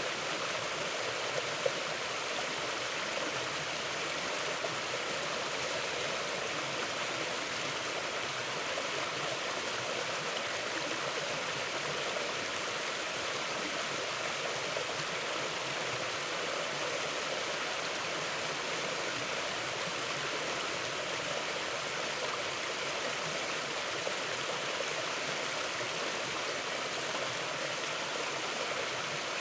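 A mountain river flowing, a steady rush of running water with no let-up, and a single brief click about one and a half seconds in.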